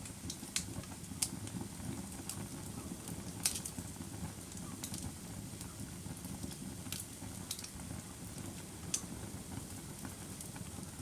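Wood fire crackling, with scattered sharp pops and snaps every second or so over a steady low rumble of flames.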